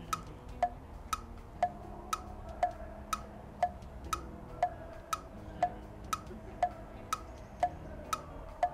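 Ticking clock sound effect for a countdown timer: a steady tick-tock of about two ticks a second, alternating between a lower and a higher click.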